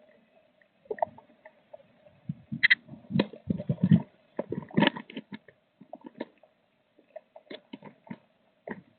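Blue tit shuffling inside its wooden nest box: irregular scratching, rustling of nest material and small knocks against the box, busiest in the middle, over a faint steady hum.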